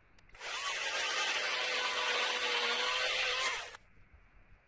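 Electric chainsaw cutting through wood in one steady run of about three seconds, starting about half a second in and stopping suddenly near the end.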